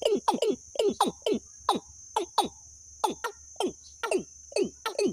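A bird calling in a fast series of short, low, downward-sliding notes, with a brief pause about halfway through, over a steady high-pitched drone of insects.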